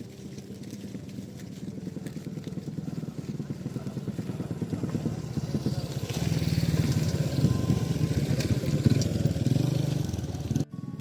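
A small engine running with a rapid steady pulse, getting louder over the first half as it nears, then cutting off abruptly near the end.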